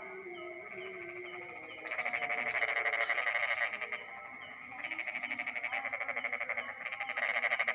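Night chorus: frogs giving rapid pulsed, trilling calls in bouts of about two seconds, over a steady high-pitched insect drone.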